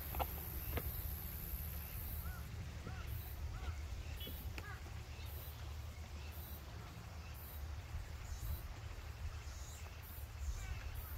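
Outdoor ambience with a few short, arched bird calls, over a steady low rumble and a high hiss that breaks into regular pulses a couple of seconds in. Two sharp clicks sound near the start.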